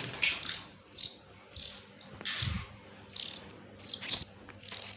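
Oriental magpie-robin (kacer) chicks chirping over and over in short, high calls, about two a second.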